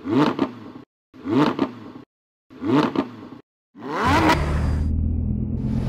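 Car engine revved in three short blips about a second apart, each a quick rising note that cuts off, then a fourth rev near the end that settles into a steady rumble.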